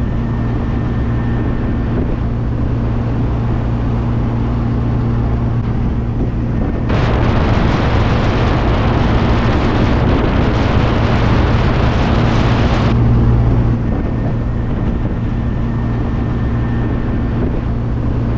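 MG Midget's four-cylinder engine droning steadily at cruising speed, with road and wind noise around it. About seven seconds in, a louder hiss of noise rises over the drone for about six seconds, then drops back.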